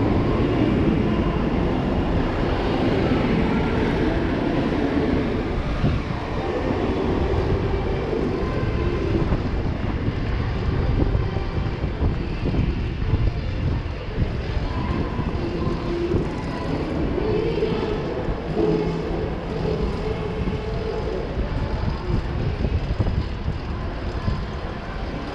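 Steady city traffic rumble of passing vehicles on the street.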